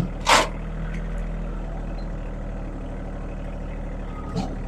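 Engine of a log-moving machine running steadily, with a short hissing burst about a third of a second in.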